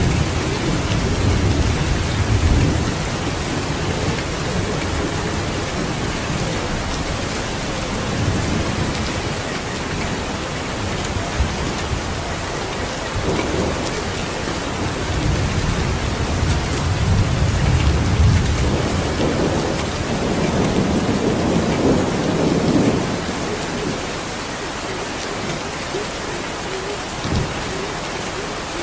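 Steady heavy rainfall with rolling thunder: a rumble at the start, another around a third of the way in, and a long roll through the middle that dies away about three-quarters in, leaving only the rain.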